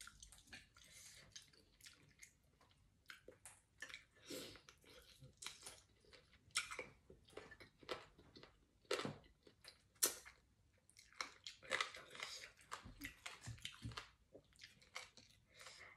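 A person eating chicken soup: close, irregular chewing with short mouth clicks and smacks.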